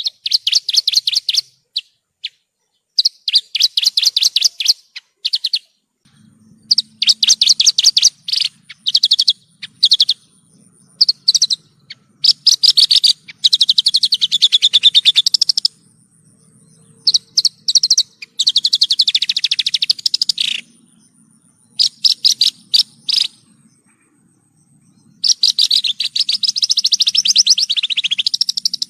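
Javan bush lark (branjangan) singing: rapid runs of high, fast-repeated notes in phrases of one to three seconds, separated by short pauses. A faint low hum sits underneath from about six seconds in.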